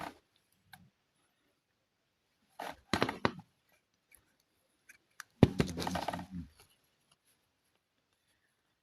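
Two short bursts of crackling and rustling from packaging or plastic parts being handled, the second opening with a sharp click.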